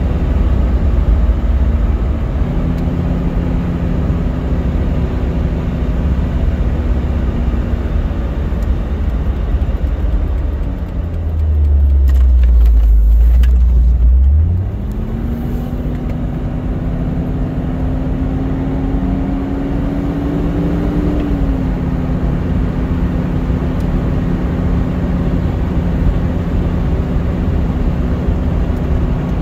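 Inside the cabin of a 1973 Mercedes-Benz 450SL, its V8 runs at a steady cruise with road and tyre noise. About 12 seconds in, a deep rumble takes over for two seconds and the engine note drops away. The note then returns and climbs gradually as the car gathers speed, and falls back again a little over 21 seconds in.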